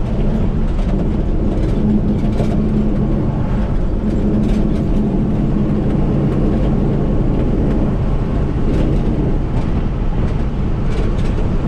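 Combine harvester running steadily with a constant low drone and hum that holds at the same level throughout.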